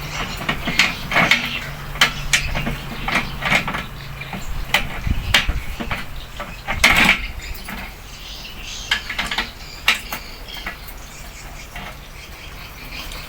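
Irregular metallic clicks and knocks of hand tools and metal parts being handled, over a faint low hum.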